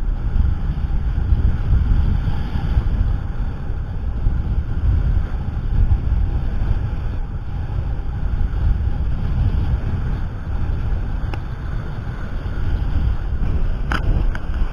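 Wind buffeting the microphone on a sailing yacht under way, a loud, gusting low rumble, with the wash of water along the hull beneath it.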